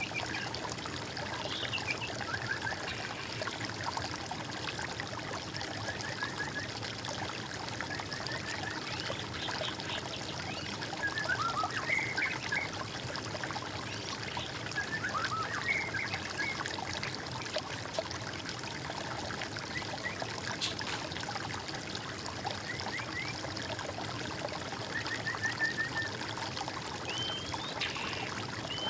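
Small stream of water trickling steadily, with birds chirping and calling every few seconds over it.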